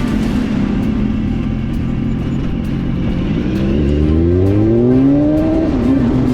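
Motorcycle engine running under heavy wind noise, its pitch rising smoothly about halfway through as it speeds up, then holding steady.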